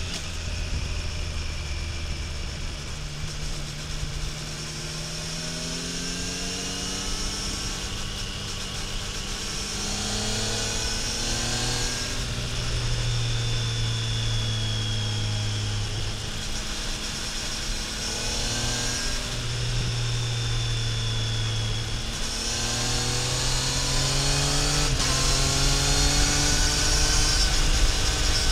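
Triumph Tiger Sport 800's three-cylinder engine and exhaust under way. The revs climb and drop back several times as the gears change, over a steady rush of wind and road noise.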